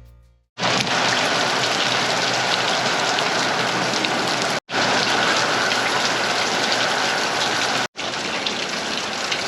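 Steady heavy rain, a dense even hiss, cut off twice for a moment, a little before halfway and near the end.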